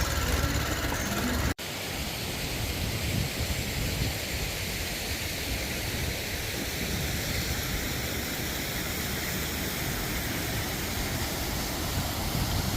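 A motorcycle engine runs for about a second and a half, then cuts off suddenly. A steady, even rushing noise follows.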